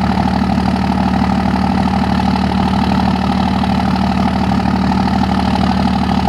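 Truck engine idling steadily and evenly, close by.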